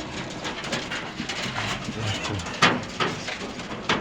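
Nutria (coypu) in their hutches making soft, low humming calls in short bouts. A sharp knock comes about two and a half seconds in and another near the end.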